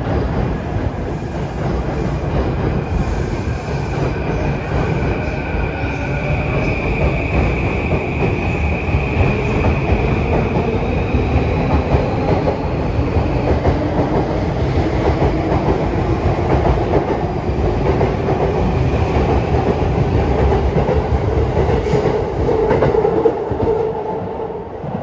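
JR East electric train running along the platform track, a steady rumble with wheel clatter over the rail joints and a high squeal from the wheels for several seconds in the middle. The noise falls away at the very end.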